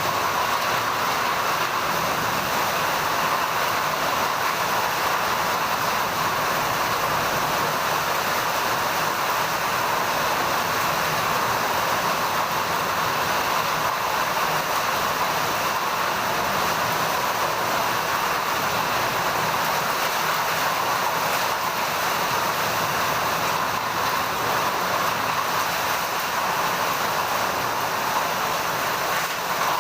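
Heavy rain falling in a steady, even hiss that doesn't let up.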